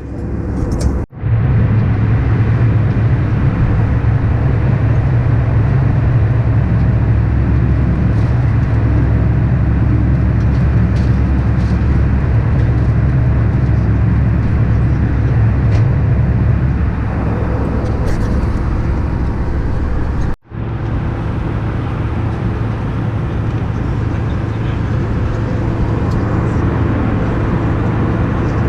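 Steady drone of an Airbus A319 airliner heard from inside the cabin in flight: a deep hum of engines and rushing air. It breaks off abruptly for an instant twice, about a second in and about twenty seconds in.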